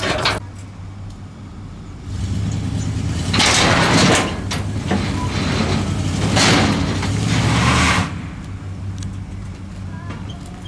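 Truck engine running, louder for several seconds from about two seconds in, with two swells of hissing noise, then settling back to a lower run near the end.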